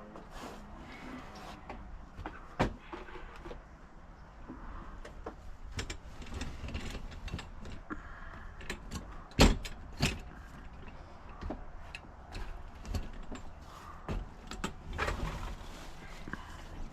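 Electric mobility scooter running, its motor humming low under a string of clunks and rattles, with a sharp knock about two and a half seconds in and two loud knocks close together around the ninth and tenth seconds.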